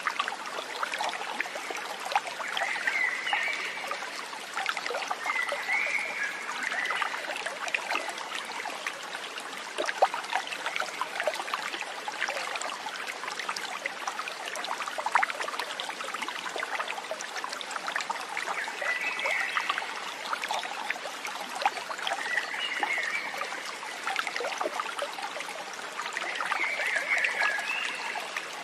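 Stream water trickling and babbling steadily, with a short high call heard about five times over it.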